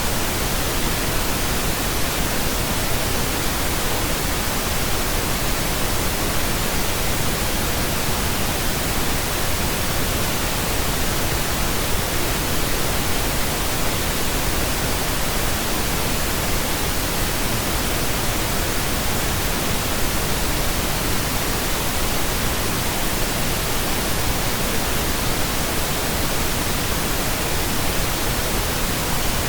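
Steady synthetic pink noise: an even, unchanging hiss spread across the whole range from deep low rumble to high hiss.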